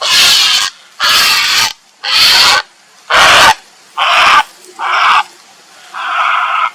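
Grey heron giving a run of seven harsh calls, about one a second, each about half a second long; the last few are shorter and less bright. Presented as the heron's call for a mate.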